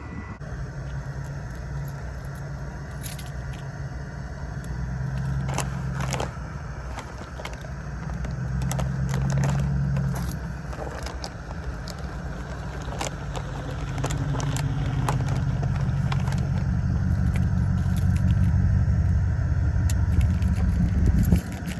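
A low vehicle-like rumble that swells and fades a few times, with scattered small clicks and light clatter.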